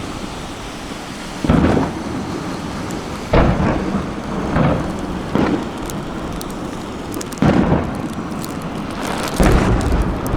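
Aerial fireworks shells bursting, about six deep booms a second or two apart, each rolling off into an echoing rumble, with a fizzing crackle of crackling stars in the second half.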